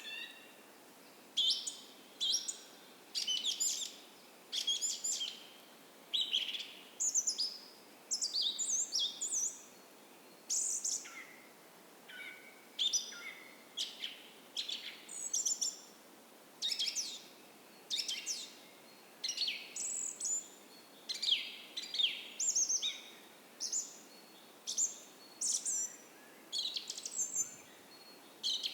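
Forest songbirds singing at dawn: short chirping, twittering phrases, about one a second, overlapping from more than one bird. A faint, steady hiss of a gentle creek runs underneath.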